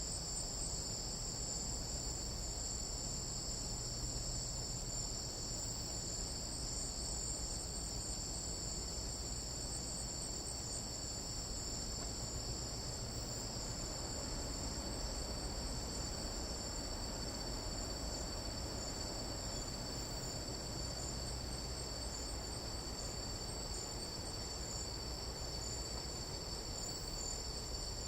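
A chorus of tropical night insects shrilling steadily: several unbroken high-pitched tones held at an even level, over a low steady background rumble.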